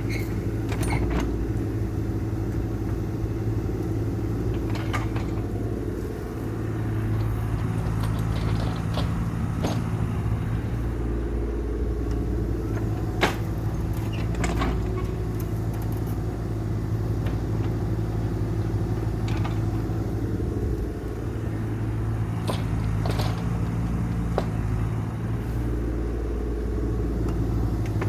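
CAT excavator's diesel engine running steadily under a working load, its hum shifting in level a few times, with scattered sharp clanks throughout.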